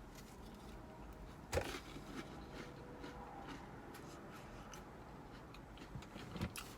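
Small clicks and taps of a utensil and food container being handled while eating: one sharp click about a second and a half in, and a few softer ones near the end, over a faint steady background.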